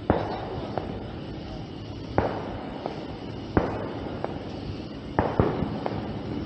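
Fireworks going off: sharp bangs every one to two seconds, two of them close together about five seconds in, with fainter pops between and a rumbling crackle trailing each.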